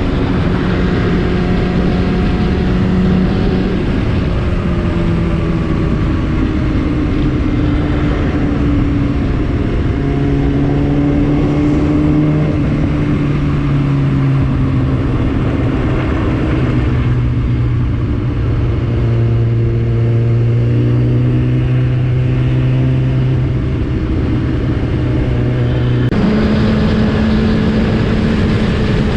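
Superbike engine with an aftermarket Akrapovič exhaust running at a steady moderate pace under a constant rushing noise, its pitch gliding slightly and stepping to a new level a few times.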